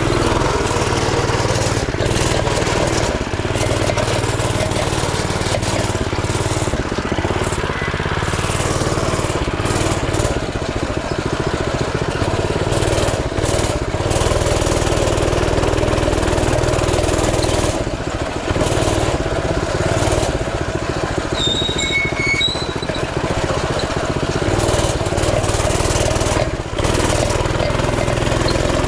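Coleman CT200U mini bike's 196cc single-cylinder four-stroke engine running steadily as the bike is ridden, with a few slight dips in throttle.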